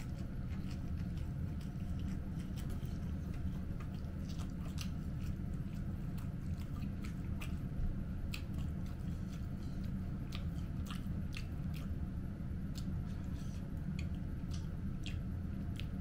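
A person chewing food close to the microphone, with many short, irregular wet mouth clicks, over a steady low hum.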